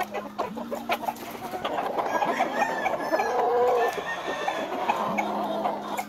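Several gamefowl roosters crowing over one another, with clucking and scattered short calls throughout.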